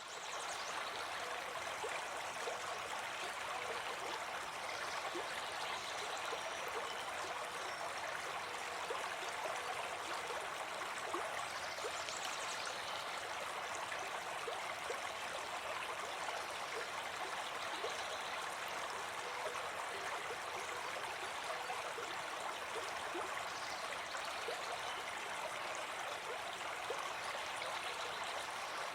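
A brook babbling steadily, a continuous even rush of flowing water.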